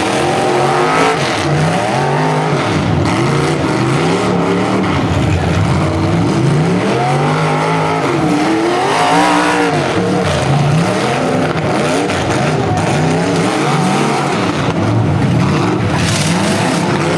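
Several demolition derby cars' engines revving up and falling back again and again, overlapping one another, as the cars manoeuvre in the arena.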